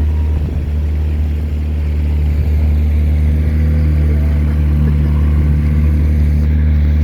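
Motorboat engine running at a steady speed, a constant low hum underneath the boat.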